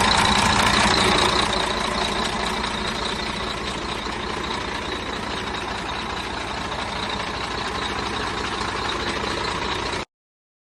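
Sinotruk HOWO truck's diesel engine idling steadily, a little quieter after about a second and a half, then cutting off suddenly near the end.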